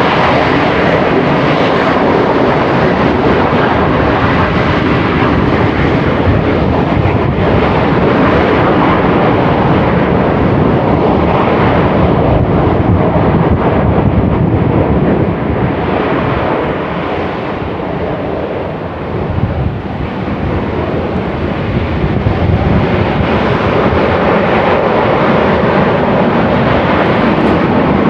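Semeru volcano's crater venting ash continuously: a loud, steady rushing noise that eases a little for a few seconds past the middle, then builds back.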